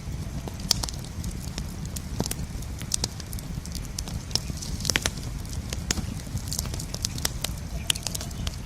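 Campfire crackling: a steady low rumble of flames with frequent, irregular sharp pops and snaps from the burning wood.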